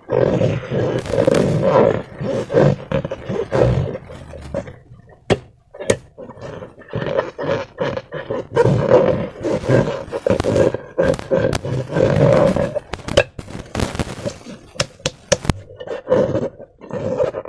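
Slime being squeezed and worked through transparent rubber balloons by hand: a loud, choppy run of wet, rubbery squishing with many sharp clicks and pops, broken by short pauses.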